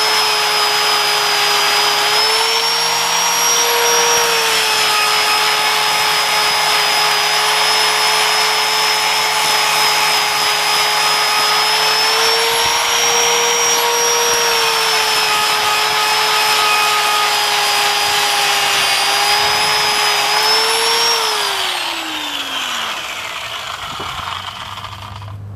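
Electric power tool spinning a fibre plastic rust-stripping disc, whining steadily with a gritty scrubbing noise as it takes rust off, its speed sagging and picking up slightly with the load. About three-quarters of the way through the tool is let go and its whine falls away as it spins down.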